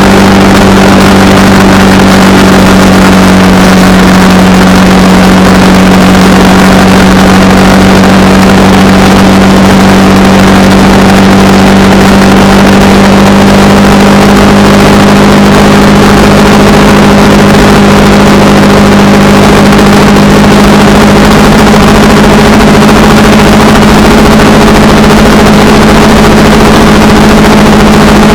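Honda Rebel 300's single-cylinder engine running steadily at cruising speed under a constant rush of wind, its pitch creeping up slightly in the second half.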